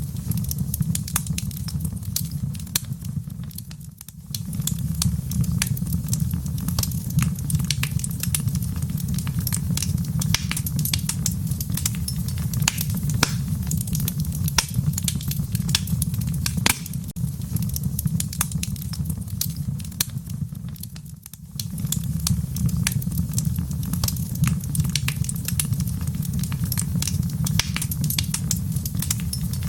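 Wood fire burning in a fireplace, with dense, irregular crackles and pops over a steady low rumble of the flames. The level dips briefly twice, about 4 seconds in and again about 21 seconds in.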